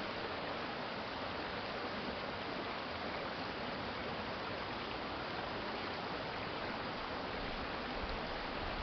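Shallow stream water flowing steadily: a constant, even rush of running water.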